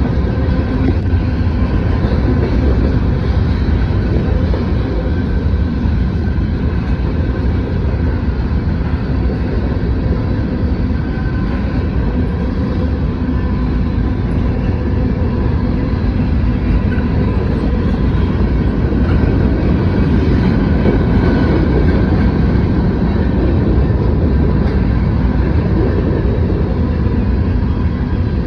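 Norfolk Southern mixed freight train's cars rolling past, a steady loud rumble of wheels on rail with faint steady high tones over it.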